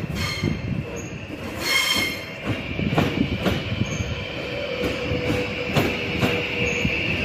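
Train moving along the station tracks, its wheels giving a steady high squeal on the rails, with repeated knocks as the wheels cross rail joints. A brief high tone sounds about two seconds in.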